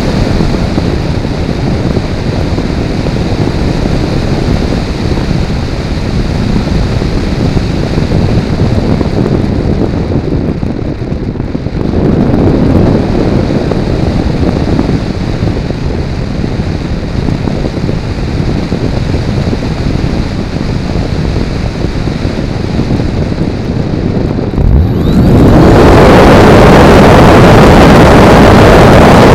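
Airflow rushing over a camera mounted on a Multiplex Blizzard RC model plane in flight. About 25 seconds in, the plane's electric motor and propeller come on, and the sound turns louder and steady.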